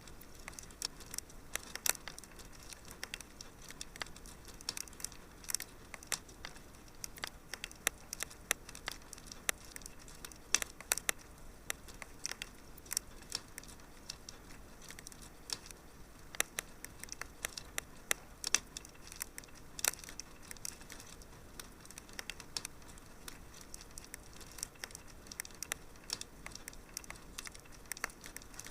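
Wood fire crackling in a fireplace: irregular sharp snaps and pops, several a second, over a soft steady hiss.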